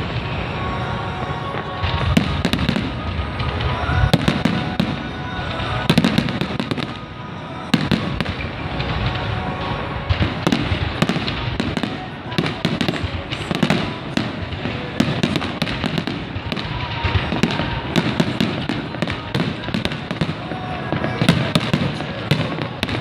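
Fireworks display: a continuous run of bangs and crackling bursts, many shells going off in quick succession.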